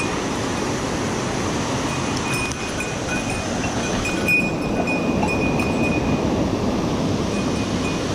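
A mountain stream rushing steadily, running high after days of heavy rain, with a faint thin high tone coming and going over it.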